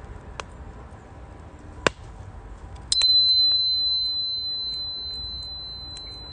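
Wood fire in a Uniflame Nature Stove Large crackling with scattered sharp pops, one louder just before two seconds in. About three seconds in, a bell or chime is struck once and rings a single high, clear tone that fades slowly.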